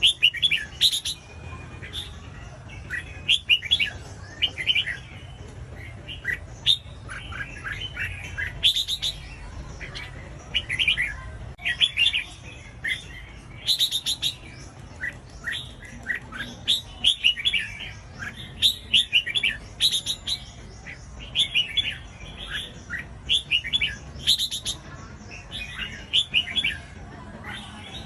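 Red-whiskered bulbul song: short, bubbling warbled phrases repeated every second or two, with a few sharp high notes, over a steady low hum.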